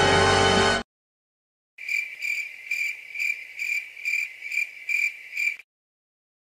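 Cricket chirping: about nine even high chirps, two or three a second, lasting a few seconds; the stock 'awkward silence' crickets sound effect. Before it, the end of a loud music clip cuts off under a second in.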